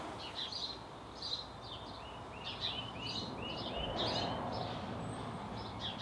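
Outdoor birdsong: several birds chirping and singing, with a quick run of repeated notes about two to three seconds in, over a steady background hiss of outdoor ambience.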